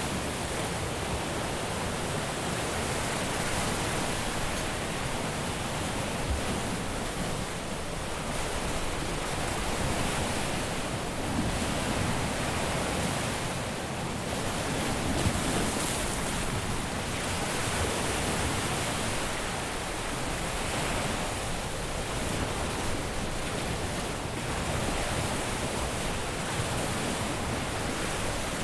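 Caribbean surf breaking and washing on a beach: a steady wash of noise that swells gently every few seconds as waves come in.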